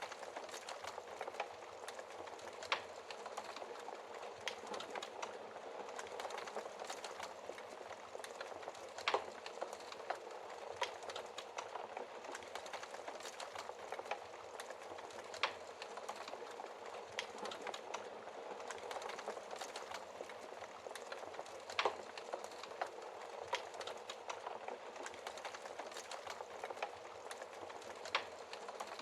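Burning wood in a fireplace crackling steadily, with many small snaps and a sharper pop every few seconds.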